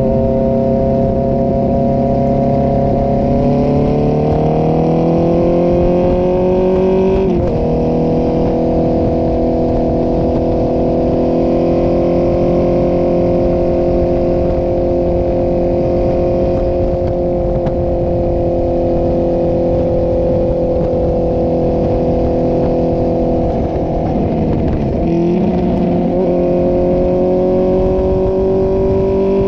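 Inline-four sport motorcycle's exhaust under way: the engine note climbs for a few seconds, breaks briefly at a gear change about seven seconds in, then holds steady at cruising revs. Near the end the note breaks and dips briefly, then climbs slowly again.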